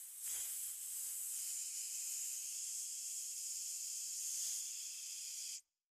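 A snake hissing: a steady high-pitched hiss that cuts off abruptly near the end.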